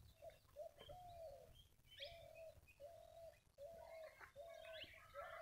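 Faint bird calls: a short, low note repeated about eight times in a steady series, with a few higher chirps from other birds.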